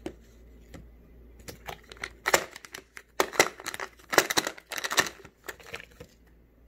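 Packaging on a vitamin bottle being torn and crinkled open: a run of sharp, crackling rips starting a little over a second in and lasting about four seconds.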